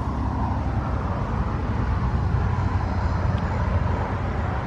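Steady low rumble of nearby road traffic, with a faint, slightly falling whine in it.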